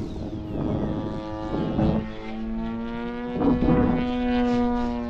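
Model airplane propeller and engine running with a steady drone, its pitch stepping up slightly about two seconds in. Gusts of wind rumble on the microphone.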